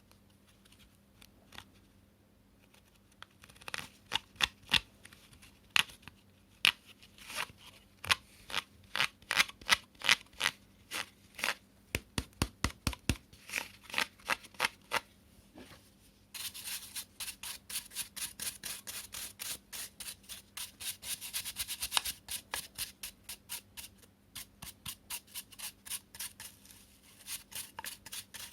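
Repeated short scraping and rubbing strokes, a few per second, from hands cleaning the plastic parts of a cyclone vacuum cleaner. From about a third of the way in, the strokes turn denser and rougher.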